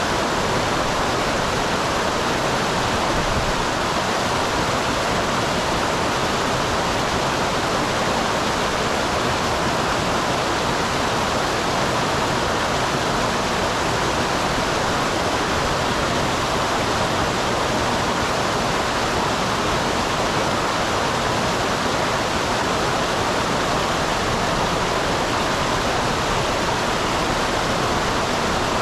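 Small waterfall on a mountain stream: a steady, even rush of falling and flowing water.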